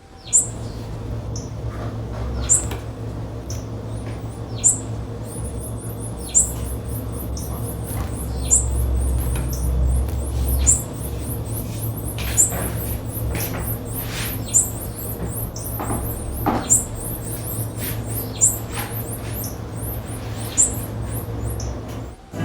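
Blue-black grassquit (tiziu) giving a short, high-pitched call about every two seconds. A rapid stream of faint, very high ticks and a steady low hum run underneath.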